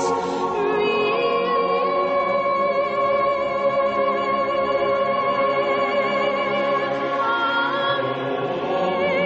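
Background music: a choir singing long, sustained notes with vibrato.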